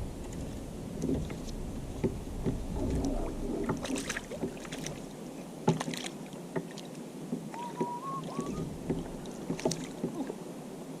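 Water lapping against a fishing kayak's hull, with scattered small clicks and knocks and a brief faint whistle-like tone about eight seconds in.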